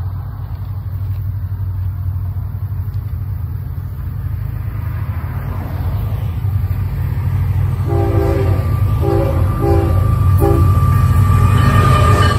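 Florida East Coast Railway diesel freight train, led by GE ES44C4 locomotive 818, approaching with a steady low rumble that grows louder. About eight seconds in, its air horn sounds four blasts, the first the longest.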